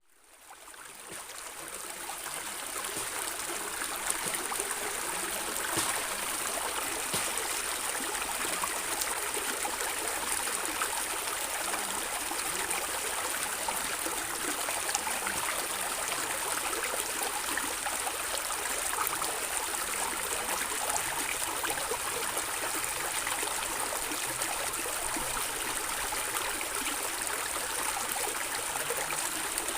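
Stream water gurgling and trickling steadily over stones, fading in over the first couple of seconds.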